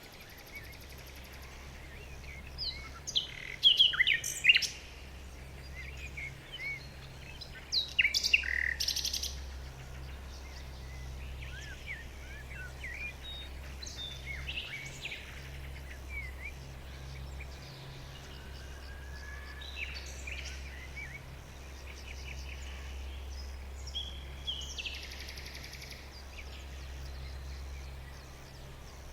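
Small birds chirping and calling, with the loudest bursts of chirps about three to four seconds in and again about eight seconds in, then fainter scattered calls. A steady low hum runs underneath.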